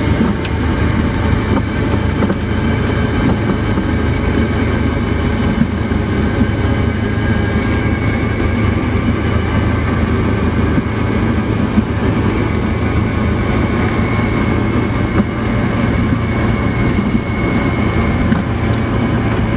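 Piston engine and propeller of a light single-engine plane running steadily, heard from inside the cabin: an even drone with a faint high tone above it.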